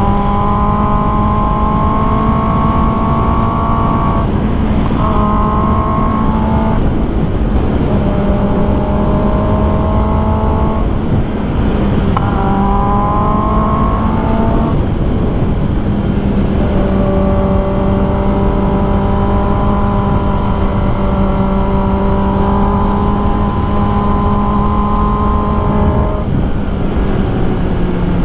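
Kawasaki ZX10R's inline-four engine running at steady high revs under way, its note breaking and changing pitch briefly a few times and dropping near the end, over heavy wind noise.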